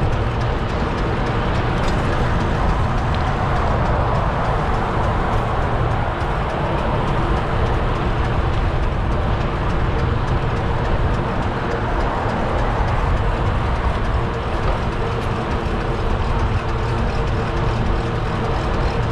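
Road traffic with vehicle engines running steadily, heard over heavy wind rumble on an action camera riding on a moving bicycle.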